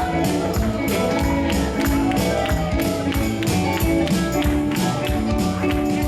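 Live church band music at a steady up-tempo beat, with tambourine or drum hits on every beat and sustained keyboard and guitar chords.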